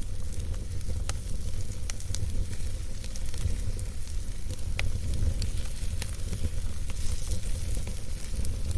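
Campfire burning and crackling, with a steady low rumble and hiss broken by irregular sharp pops from the burning wood.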